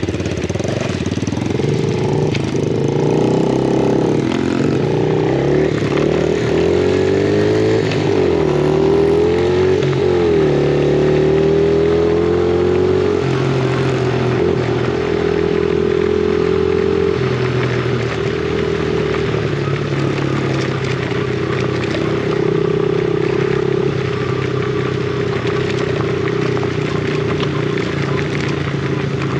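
Yamaha TT-R50E dirt bike's small four-stroke single-cylinder engine under way on a trail. Its note rises and falls repeatedly over the first dozen seconds as the throttle is worked and gears are changed, then holds steadier, wavering a little.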